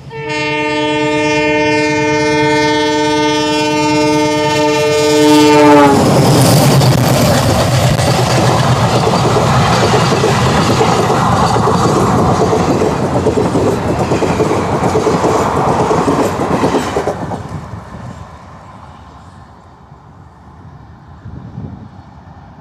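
Passenger train passing close by. The locomotive's multi-tone horn is held for about five seconds and drops in pitch as the engine goes past. The coaches then rumble and clatter over the rails for about ten seconds before fading away.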